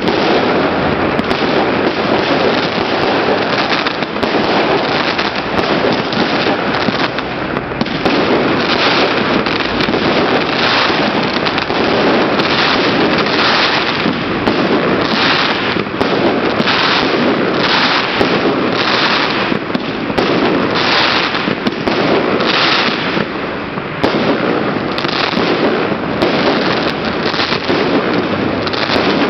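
Fireworks display going off in a loud, continuous barrage of bangs and crackling, with a quick, regular run of bursts, roughly one or two a second, through the middle.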